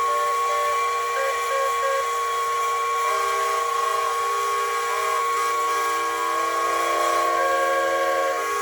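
The noon whistle: several whistles blowing together at different steady pitches, with a few shorter toots about a second in, over a hissing rush.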